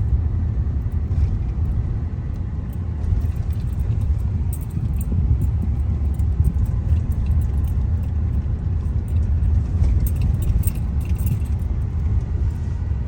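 Steady low rumble of a car's engine and tyres heard from inside the moving car, with light, high clicking rattles coming and going, most around four to five seconds in and again around ten to eleven seconds in.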